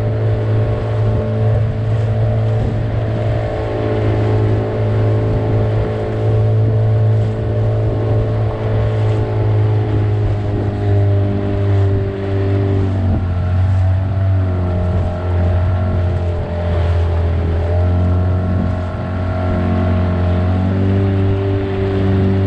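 Motorboat engine running under way, a steady low drone whose note changes a few times in the second half.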